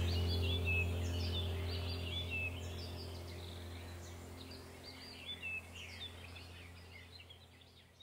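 Small birds chirping rapidly, many short quick chirps, over the steady low tones of a background music track; the whole mix fades out gradually to near silence by the end.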